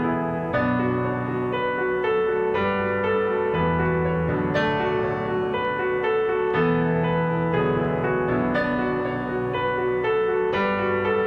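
Background piano music with slow, sustained chords changing every second or two.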